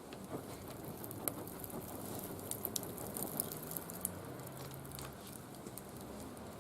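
Wood fire crackling in a barbecue grill: irregular sharp pops and snaps over a steady hiss, busiest in the middle.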